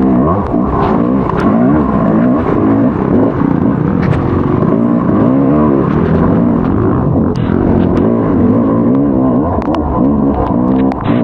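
Motocross bike engine being ridden hard, its pitch rising and falling continually as the throttle is opened and closed, with scattered sharp clicks.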